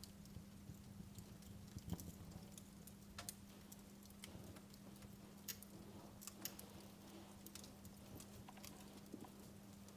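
Wood fire crackling in a fireplace: faint, irregular sharp pops and snaps scattered through, over a steady low hum.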